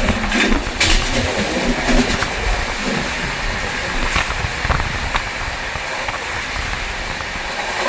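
A moving train running steadily, with an even rumble and rattle and a few sharp clicks.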